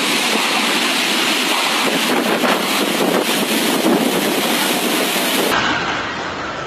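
Strong storm wind rushing, with heavy wind noise on the microphone. The sound changes abruptly about five and a half seconds in and becomes a little quieter.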